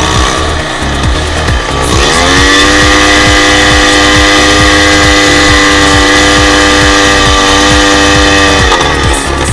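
Dirt bike's single-cylinder engine revving up about two seconds in and holding a steady high pitch, then dropping off near the end, over background music with a steady beat.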